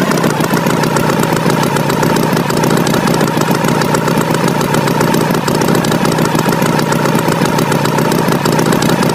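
A tractor engine running steadily at an even pitch.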